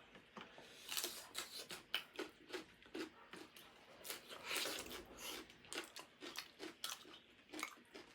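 People eating: chewing and crunching food, with irregular short wet clicks and smacks from the mouth.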